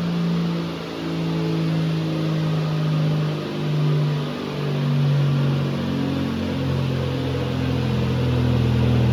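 Swapped-in Toyota 2JZ straight-six running hard on a chassis dyno, its exhaust note holding fairly steady with small shifts in engine speed.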